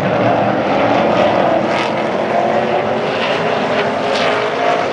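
Pack of super trucks racing around the oval, their engines blending into one loud, steady drone.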